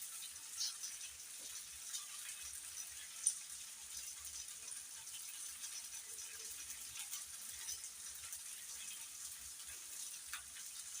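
Chicken gizzards cooking in a pan: a faint, steady sizzling hiss with scattered small crackles and one sharper click about three seconds in.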